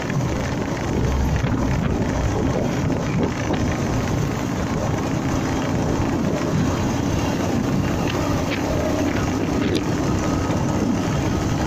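Honda MegaPro motorcycle's single-cylinder engine running steadily while riding, mixed with wind rushing over the microphone.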